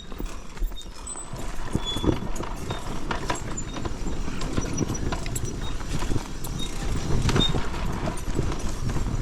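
Irregular knocks and clattering on loose rock over a steady low rumble, from a dirt bike working through a rocky hard-enduro section.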